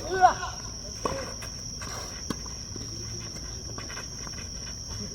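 Tennis ball struck back and forth with rackets: sharp pops, the first right at the start and the clearest a little after two seconds in, with a short shout in the first half second. A steady high insect drone runs underneath.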